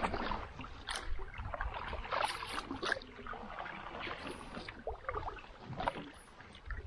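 Canoe paddle strokes dipping and pulling through the water, with irregular splashes and drips off the blade.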